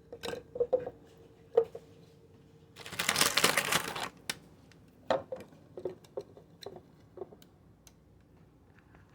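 Churros being handled and dropped into a cup: a few light knocks, then about a second of rustling around three seconds in, followed by a string of light taps.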